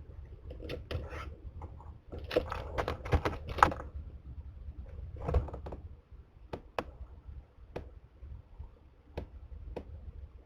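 A bird scrabbling and knocking at a wooden box entrance with its prey: a burst of scrapes and knocks about two to four seconds in, another around five seconds, then a few single sharp clicks spaced well apart, over a low steady hum.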